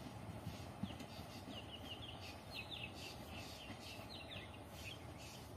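A small bird chirping: a run of quick, high, short chirps starting about a second in, over a steady low rumble from a distant passing train.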